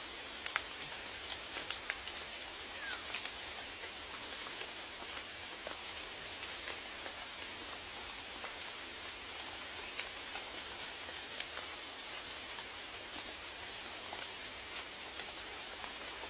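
Steady rain, with scattered individual drops ticking sharply against a surface.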